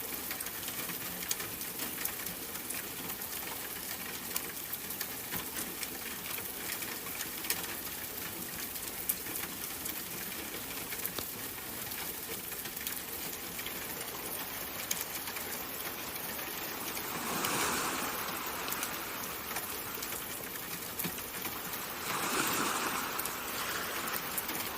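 Steady pattering water ambience, like rain falling on a surface, full of small drop clicks. It swells twice in the second half, about five seconds apart.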